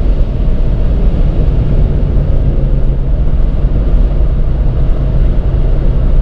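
2018 Audi TT RS's 2.5-litre turbocharged five-cylinder engine, with tyre and road noise, running at speed: a loud, steady low drone that holds its pitch.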